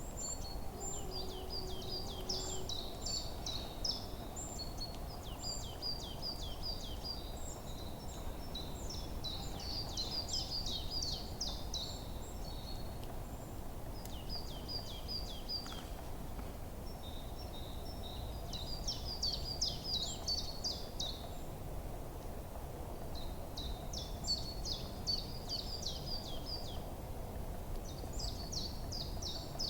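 Forest birds singing: bouts of rapid, high chirping and trilled phrases that come and go every few seconds, over a steady low background rumble.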